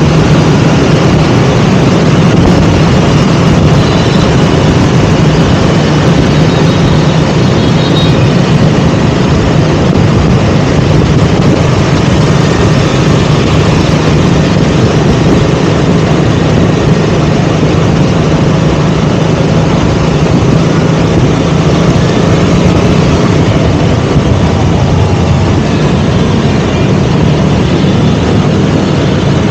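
KTM Duke 200's single-cylinder engine running at a steady speed on the move, with a dense rush of road and wind noise.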